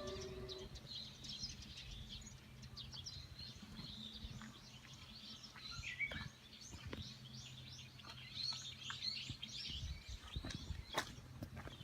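Faint chorus of small birds chirping over and over, with a steady low hum underneath that stops near the end, followed by a few sharp clicks. At the very start the last note of an outdoor loudspeaker chime dies away.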